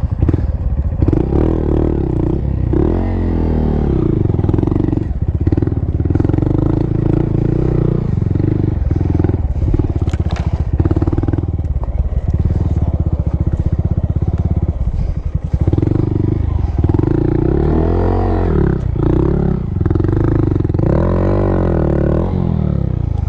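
Honda Monkey's single-cylinder four-stroke engine running at low speed on a rough trail, with the revs rising and falling several times.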